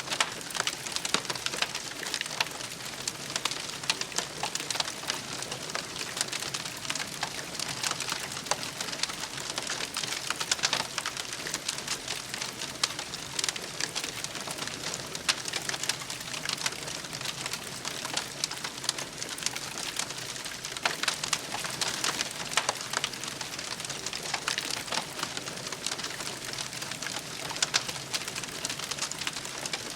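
Campfire burning: a steady hiss with frequent sharp crackles and pops from the burning wood.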